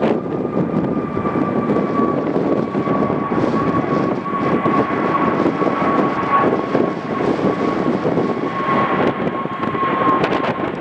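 Jet airliner's engines with a steady whine that slowly falls in pitch, under gusty wind buffeting the microphone.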